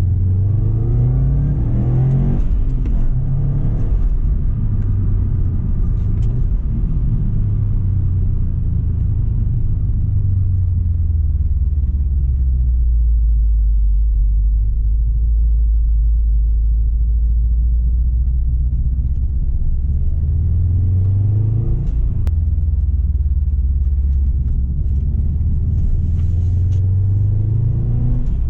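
Tuned Subaru Impreza STI's turbocharged flat-four through a Milltek exhaust, heard from the moving car. It revs up through a gear at the start, settles into a steady low drone through the middle, then pulls up through the revs again near the end with a gear change between.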